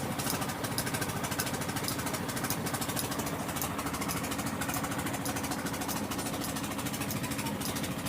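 An engine idling steadily with a rapid, even clatter.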